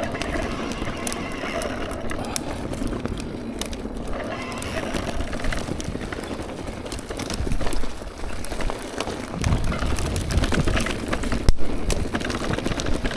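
Mountain bike riding over wet rocks and roots: tyres rumbling on rough ground and the bike rattling, with many sharp knocks and clatters. It gets rougher and louder about seven and a half seconds in and again from about nine and a half to eleven and a half seconds in.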